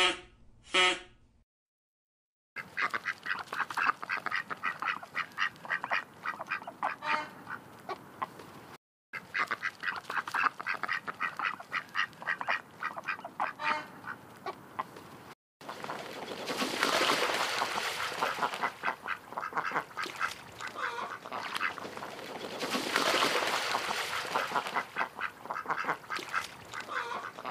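Canada goose giving a rapid run of short calls, heard twice. About halfway through, this gives way to domestic ducks quacking, which swells louder twice.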